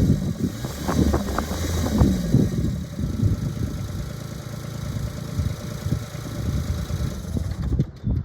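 Kubota BX24 compact tractor's three-cylinder diesel engine running, louder in the first couple of seconds and then steadier.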